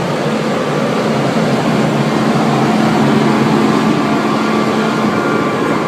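A motor vehicle's engine running steadily, with a low hum throughout and a higher steady tone joining a little past halfway.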